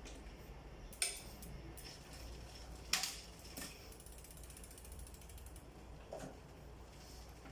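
Mountain bike drivetrain being worked: sharp mechanical clicks about a second in and, loudest, about three seconds in, with fainter ratchet-like ticking between them.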